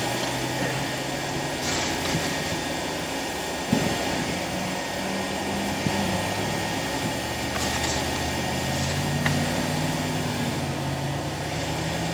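Steady mechanical hum of running engines or machinery, its low pitch wavering and rising a little near the end, with a few light knocks.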